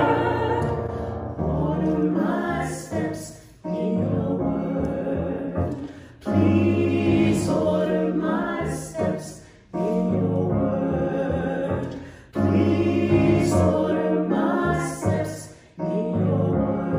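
A church choir singing in phrases of about three seconds, each ending in a short break, over sustained low accompanying notes.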